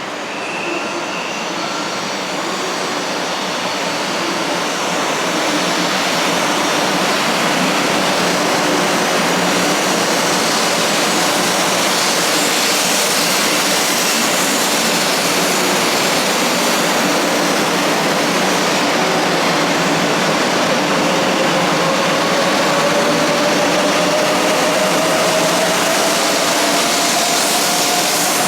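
500 Series Shinkansen train pulling out and accelerating, a rushing rolling noise that grows over the first few seconds and then holds loud, with a faint whine that climbs slowly in pitch in the last third as the train gathers speed.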